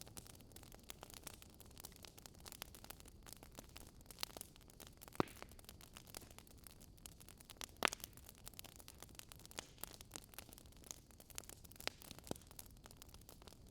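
Wood fire crackling faintly, with irregular sharp pops and snaps over a low hiss, a couple of louder pops about five and eight seconds in.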